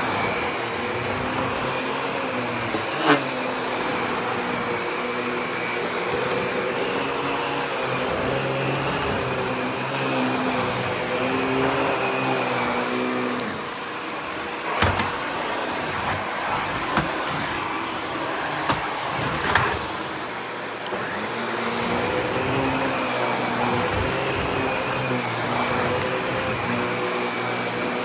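Miele Complete C3 Cat & Dog canister vacuum running with its SEB-228 power nozzle: a steady drone with a high whine, and a lower hum that wavers in pitch. A few sharp clicks or knocks come through it now and then.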